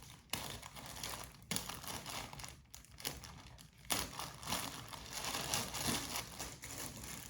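Plastic packaging crinkling and rustling as it is handled, in irregular bursts with a few sharper crackles.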